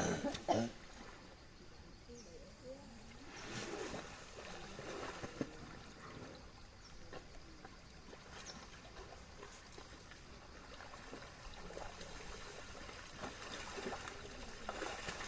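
Elephants in a mud wallow, wet mud splashing and slapping with trickling water and scattered soft splats. The loudest sound is a short one right at the start.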